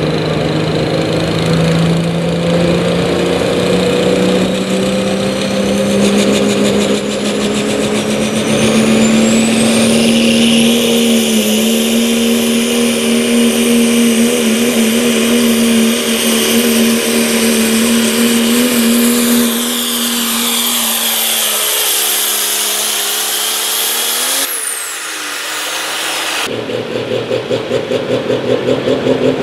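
Diesel farm tractor under full load on a pull: the engine note climbs and holds steady with a high whine rising over it, then both wind down near the end of the run. After an abrupt change, another diesel engine runs with a throbbing beat.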